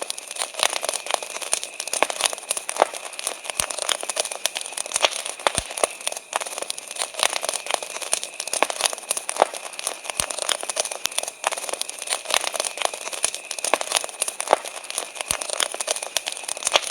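Wood campfire crackling, with many irregular sharp pops and snaps, over a steady high chirring of crickets.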